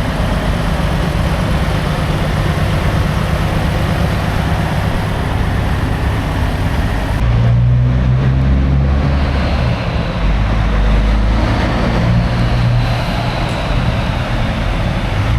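Semi truck on the move: a steady low engine rumble with road noise. About seven seconds in the hiss fades and the low rumble grows stronger.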